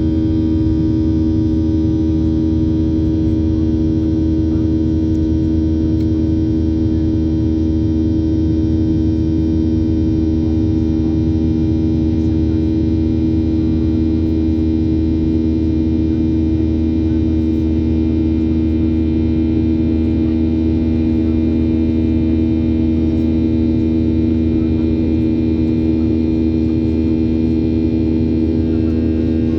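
Steady drone inside the cabin of a Ryanair Boeing 737-800 with its CFM56-7B engines running: a constant low rumble under a strong two-note hum that does not change.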